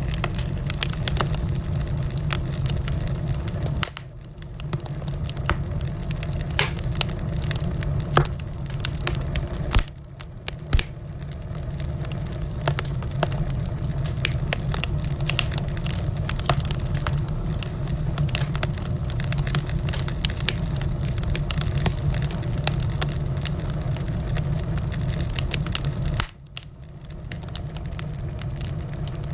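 Wood fire crackling in a fireplace: a steady low rumble of burning with frequent sharp pops and snaps, dipping briefly in loudness three times.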